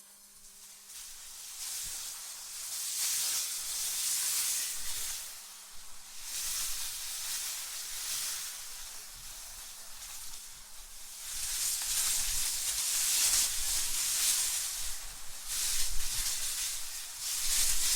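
Gusty wind hissing, swelling and fading in waves every few seconds, with a low rumble under the strongest gusts.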